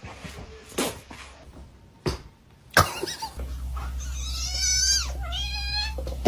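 A cat giving two long, wavering meows, the first starting about four seconds in and the second just after it, preceded by a few short knocks.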